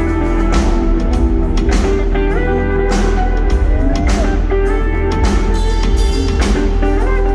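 Live rock band playing loudly: a lead guitar line with bent notes over a steady drum beat with cymbals and a heavy bass.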